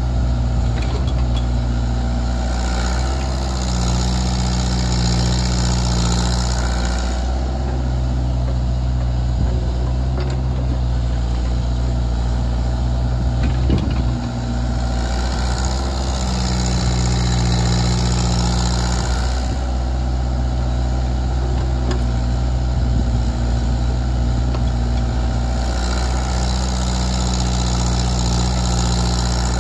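Diesel engine of a Kubota KX161-3 mini excavator running steadily, its newly swapped-in engine no longer burning oil. Three times, for a few seconds each, the engine note shifts and a higher hiss or whine joins in.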